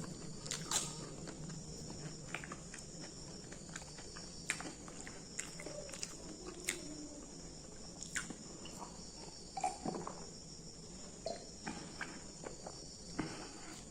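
Close-up chewing and biting of crunchy raw food: irregular sharp crunches and clicks, several a few seconds apart. Under it runs a steady high-pitched trilling of crickets.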